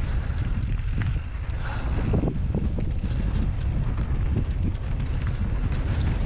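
Wind buffeting the microphone over the rattle and clatter of a bicycle riding a rough dirt trail, with many short knocks from the bike and the ground.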